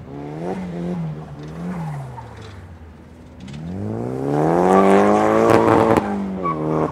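Nissan S14's engine revving hard while drifting: three quick blips of the throttle, a dip, then a long climb in revs that peaks about five seconds in before dropping and picking up again near the end.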